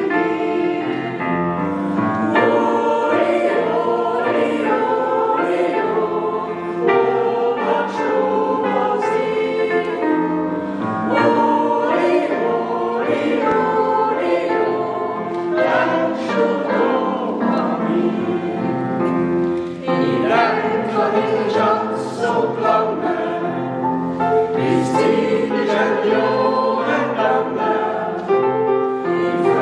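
A choir singing a song in several voice parts, continuously, with held notes changing phrase by phrase.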